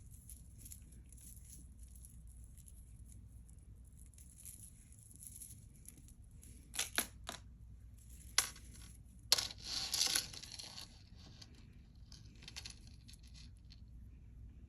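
Faint handling of a beaded chain necklace: a few sharp clicks and clinks about halfway through, then a short rustle.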